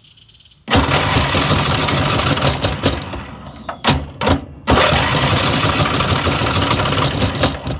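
Riding lawn mower's small engine cranked through wires jumping its dead starter solenoid, catching and running loud and rough about a second in. It drops out for about a second near the middle, then runs again.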